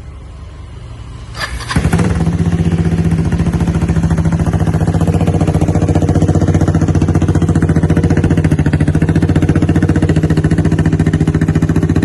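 Kawasaki W250's air-cooled single-cylinder engine starting up about a second and a half in, then idling steadily with a loud, even beat through a free-flow Vance & Hines-style double racing exhaust.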